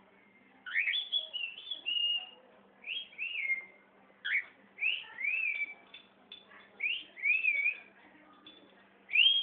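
Cockatiel whistling a string of short, clear notes, many rising and then falling in pitch.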